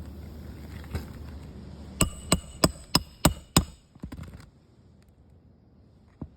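A hammer striking a metal tool six times in quick succession, about three blows a second, each blow ringing metallically, followed by a few lighter taps. A steady low hum runs underneath and dies away after the blows.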